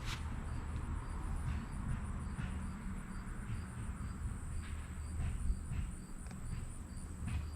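Insects singing in late-summer garden vegetation, likely crickets: a steady high-pitched trill with short regular chirps about twice a second, over a low rumble.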